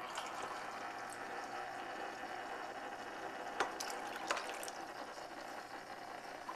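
Water being poured into a plastic pet water fountain's reservoir, a steady splashing fill, with two short clicks about three and a half and four and a half seconds in.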